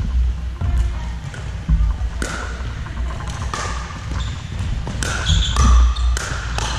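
Pickleball play in a large indoor hall: sharp, irregular pocks of paddles striking the hard plastic ball and the ball hitting the court, each ringing briefly in the room.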